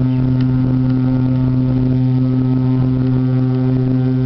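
Horn of the Equinox-class lake freighter G3 Marquis held in one long, loud, steady blast, a warning to small boats in the ship's path.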